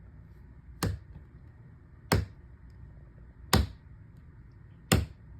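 Four sharp, evenly spaced percussive strikes, about one every second and a half, keeping a steady beat.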